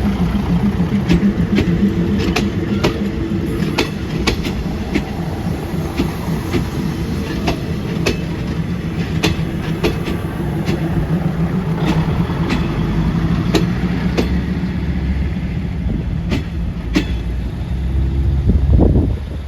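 A train running past, its engine droning steadily under sharp, irregular clicks of the wheels over rail joints. The sound drops off abruptly near the end.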